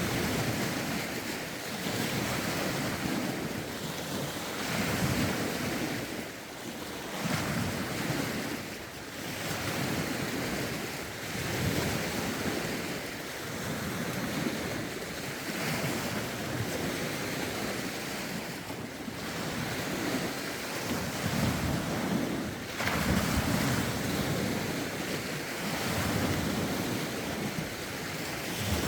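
Lake waves lapping and breaking against the shore in a steady rhythm of swells every couple of seconds, with wind gusting over the microphone.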